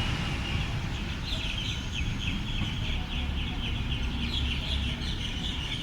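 Birds chattering in a long run of rapid, short, high calls, over a steady low rumble.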